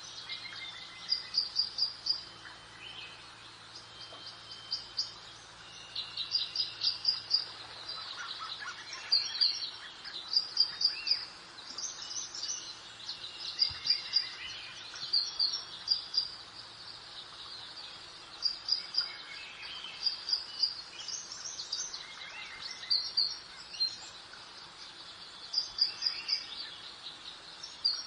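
Songbirds singing: short phrases of quick, high chirping notes repeat every second or two, some overlapping, over a soft steady background hiss.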